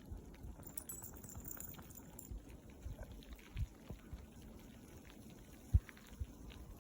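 Snowstorm wind buffeting the microphone in low, uneven gusts, with a single sharp thump near the end.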